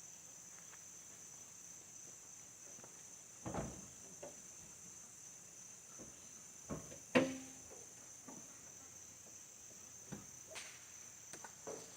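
Insects, likely crickets, trilling steadily at a high pitch, with a few scattered faint knocks; the loudest knock comes about seven seconds in.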